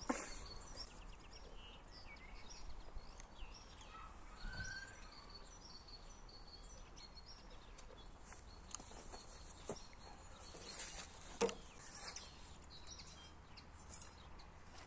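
Quiet outdoor ambience with small birds chirping here and there, and a few light knocks, the loudest about eleven seconds in.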